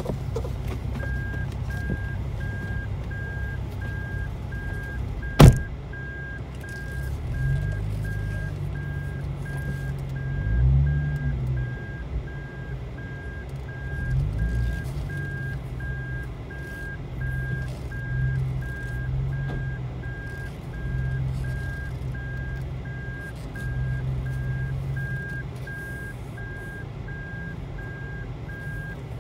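Supercharged Lexus IS200 inline-six running at low revs while the car crawls along, heard from inside the cabin, with a few small rises in revs. A single electronic beep repeats evenly about twice a second, and one sharp knock about five seconds in is the loudest sound.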